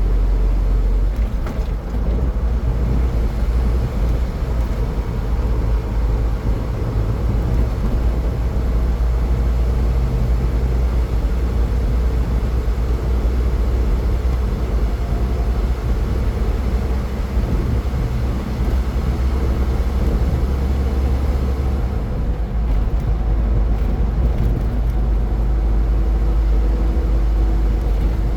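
Steady road noise of a car driving at highway speed: a constant deep rumble of tyres and engine with a fainter hiss above it.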